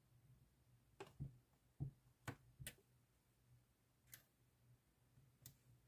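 Faint sharp clicks and taps from trimming and handling small model supports with hobby tools on a workbench: a quick run of about five a second or two in, then two more spaced out, over a faint steady hum.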